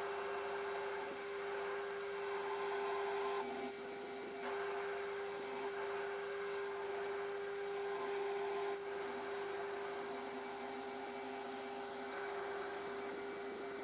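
Metal lathe running with a steady pitched hum while a parting tool cuts off the workpiece, a scraping cutting noise that swells and eases a few times.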